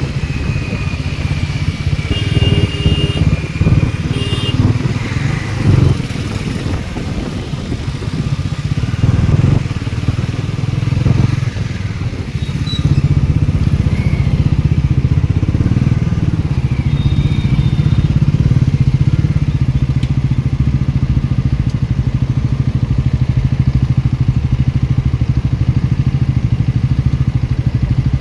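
Motorcycle engine running steadily under way, getting louder and more even about halfway through. There are a few short horn beeps near the start.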